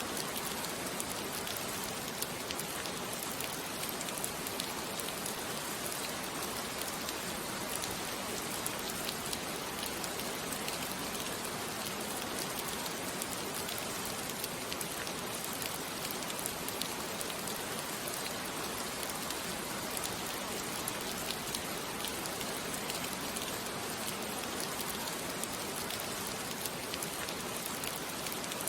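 Steady rain falling on a surface, a constant hiss dotted with fine individual drop ticks.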